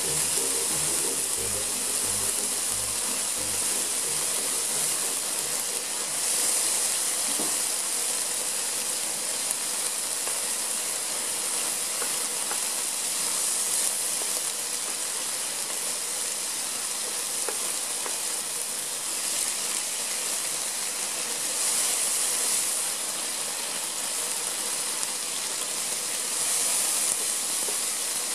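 Sliced deer tongue and asparagus sizzling as they stir-fry in a hot pan, a steady frying hiss with a few faint taps now and then.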